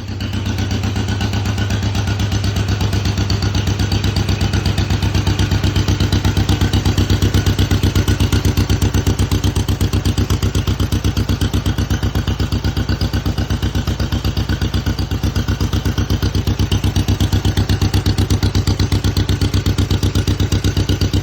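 1952 John Deere MT tractor's two-cylinder engine running steadily at idle, with an even, rhythmic putt-putt of exhaust pulses.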